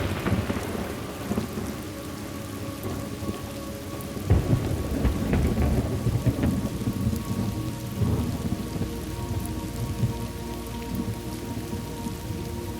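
Thunderstorm: steady rain with rolling thunder. A rumble fades over the first couple of seconds, a fresh one breaks about four seconds in, and another comes near eight seconds.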